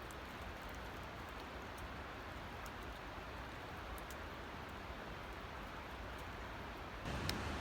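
Steady rushing of water from a forest creek and waterfall, with a few faint ticks. Near the end it grows louder and deeper.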